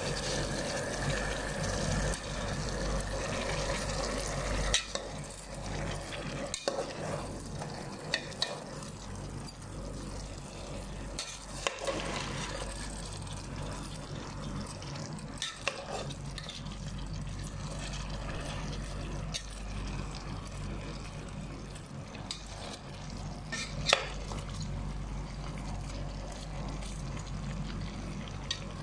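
Sliced bitter gourd with salted shrimp frying in a pan, a steady sizzle, while a metal spoon stirs it. Now and then the spoon clicks sharply against the pan, loudest once late on.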